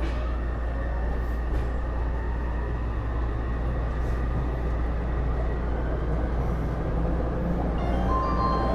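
Taipei Metro Series C301 metro car running, heard from inside: a steady rumble of wheels and running gear with a faint steady high tone from the Bombardier IGBT-VVVF traction equipment. Near the end, electronic tones begin.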